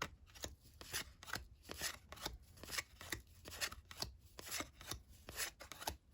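Cardboard trading cards slid one at a time off the top of a pack's stack, a short dry swish or snap with each card, about two to three a second.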